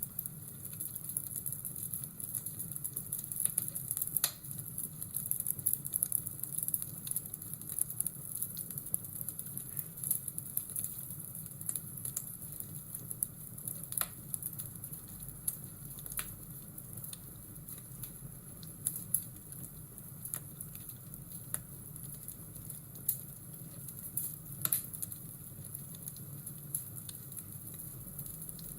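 Fireplace ambience: a wood fire crackling with sharp, irregular pops over a steady hiss of rain.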